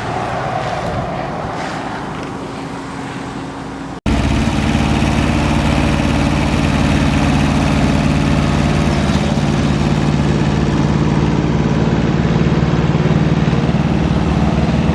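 An even rushing noise, then after an abrupt cut about four seconds in, an engine idling steadily.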